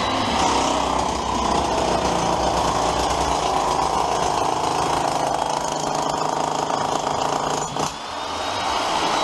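Electric demolition hammer running continuously in rapid blows, breaking out masonry or tiles, with a brief pause about eight seconds in.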